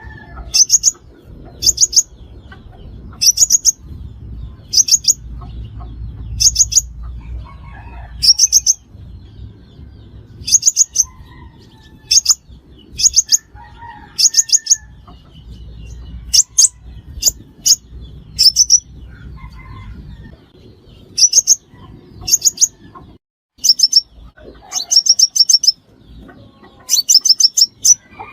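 Sunbird calling: short bursts of three to five very high, rapid notes, repeated about every second and a half.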